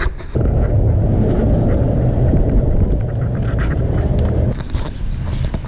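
Low, steady rumble of a motor vehicle running. It comes in suddenly about half a second in and eases off after about four and a half seconds.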